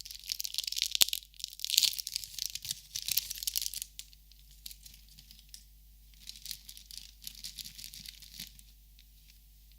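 Close crinkling and rustling, in dense bursts for about four seconds with one sharp click about a second in, then a softer spell of crinkling that stops shortly before the end.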